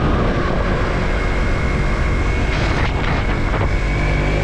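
Yamaha MT-03's 321 cc parallel-twin engine running steadily while riding, under a haze of wind and road noise.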